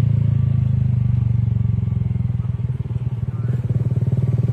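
A motor vehicle's engine running steadily: a low, even drone with a fast, regular pulse, easing slightly about three seconds in.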